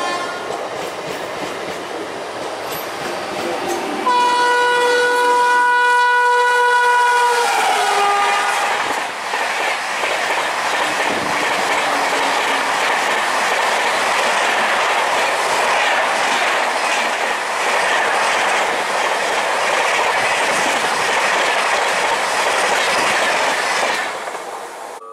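Indian express train passing at speed: its electric locomotive sounds its horn for about three seconds, the pitch dropping as it goes by, then the coaches rush past with a steady rumble and wheel clatter for some fifteen seconds before the sound falls away near the end. A fading horn is heard at the very start.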